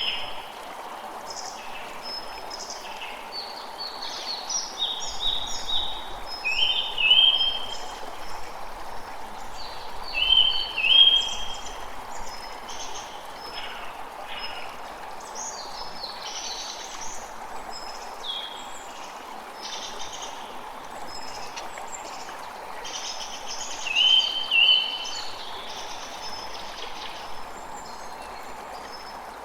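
A creek runs with a steady rushing sound while several birds call over it. The loudest is a repeated pair of short, high notes that comes back three times.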